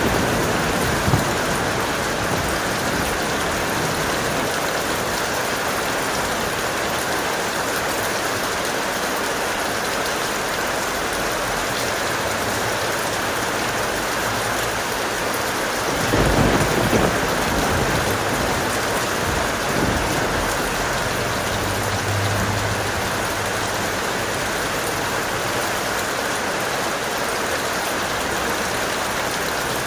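Steady heavy rain, with a rumble of thunder about sixteen seconds in.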